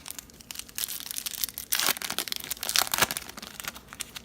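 Foil wrapper of a baseball card pack being crinkled and torn open, a run of crackling that is densest in the middle.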